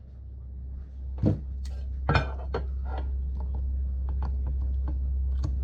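Metal parts and tools clinking and knocking on a workbench, with two sharp knocks in the first half. A steady low hum from a machine comes in and slowly grows louder.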